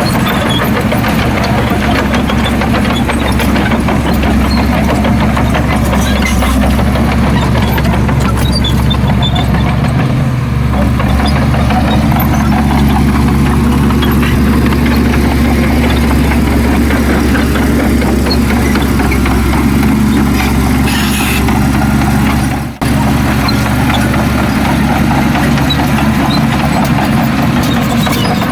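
Heavy diesel engine of earthmoving machinery running steadily, with a deep low hum. The sound cuts out for an instant about three-quarters of the way through.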